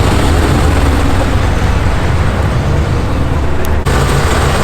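Loud car engine noise from street racing, heavy and steady, cutting off for an instant about four seconds in before resuming.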